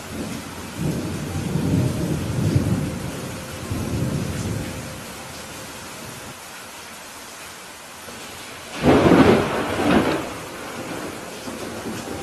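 Steady rain with rolling thunder: a low rumble builds and fades over the first few seconds, then a louder, sharper thunderclap comes about nine seconds in and dies away within a couple of seconds.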